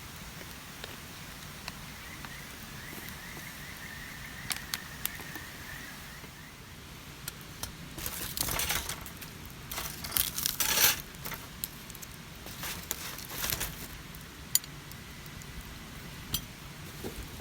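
A cluster of sharp clicks, clinks and rattles of gear being handled, loudest in the middle, over a steady murmur of a mountain stream. A faint, rapidly repeated high chirp sounds for a few seconds near the start.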